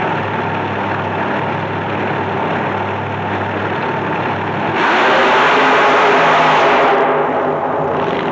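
Big racing truck engine running at a steady pitch, then a louder, noisier stretch of about two seconds from about five seconds in.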